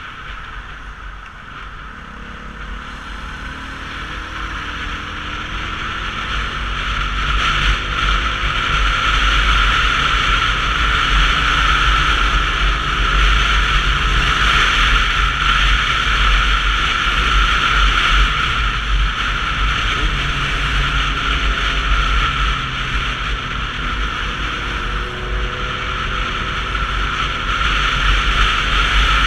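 Wind rush and road noise from a Sinnis Terrain 125cc motorcycle ride, picked up by a camera with no helmet microphone. It grows louder over the first several seconds as speed builds, with the engine faintly audible rising in pitch through the gears.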